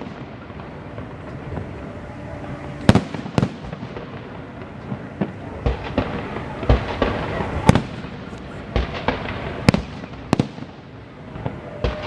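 Festive fireworks salute going off: a string of sharp bangs and pops, irregular and clustering thickly in the second half, over a steady crackling haze.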